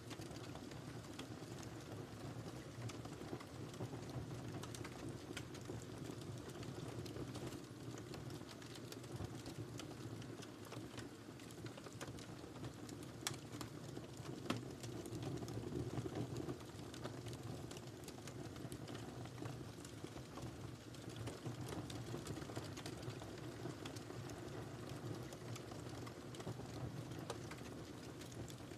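Fireplace fire crackling: a steady low rush of flames under a continuous stream of small snaps, with a couple of sharper pops near the middle.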